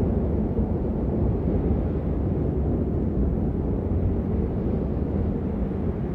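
Steady rain noise, deep and muffled, with most of its sound in a low rumble and little hiss.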